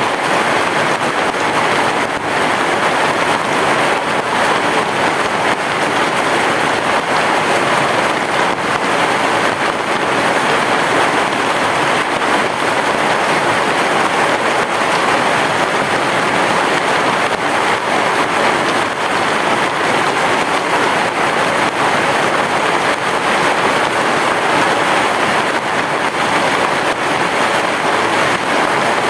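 Heavy rain falling steadily on a roof: a dense, even hiss of countless drops that holds the same level throughout, with no thunder.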